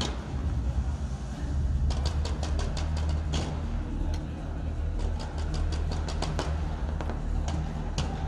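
A car engine running steadily with a low rumble, while many short, sharp clicks come in quick irregular succession.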